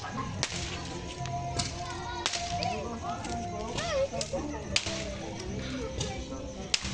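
Sharp firecracker cracks going off at irregular intervals, a second or two apart, over a bed of distant voices.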